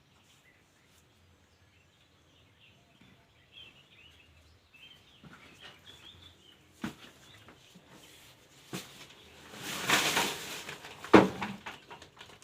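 Faint birds chirping outdoors, then rustling and scattered knocks of things being handled, with a rush of noise about ten seconds in and a sharp loud knock just after.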